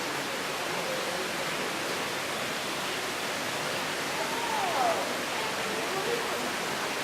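Steady rushing hiss of running water. About four seconds in there is a faint short tone that rises and falls.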